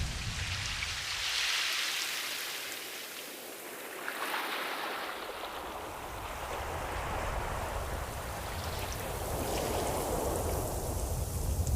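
Ocean surf: the rush of waves washing in and draining back, swelling and fading in several surges, with a deep rumble at the start and again near the end.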